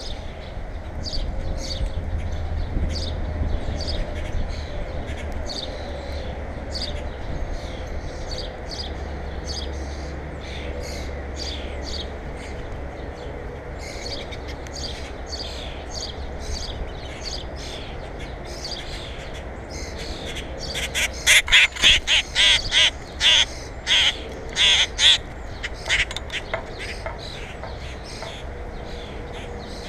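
Birds calling: a steady stream of short calls, then about twenty seconds in a run of nine or so loud calls in quick succession, over a low steady rumble.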